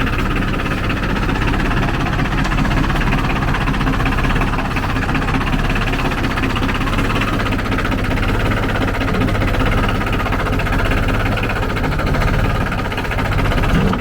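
Late-1980s Ford 1520 tractor's three-cylinder diesel engine idling steadily.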